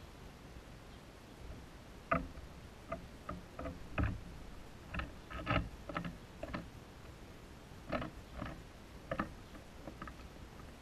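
Irregular light tapping on a hummingbird feeder, about fifteen short knocks in groups over eight seconds, typical of a downy woodpecker pecking at the feeder.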